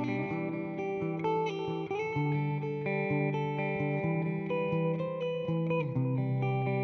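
Electric guitar, a Fender Jazzmaster Modern Player with humbuckers, played through a Nux Time Core delay pedal and an Amplitude 4 simulation of a Fender '65 Twin Reverb amp. Notes and chords ring over one another, with a couple of sliding notes.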